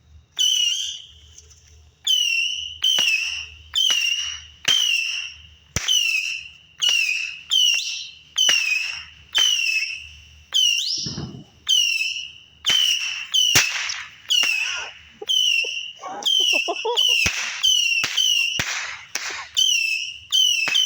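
Saturn missile battery firing a rapid string of small whistling rockets, about one a second, each a sharp crack with a high whistle.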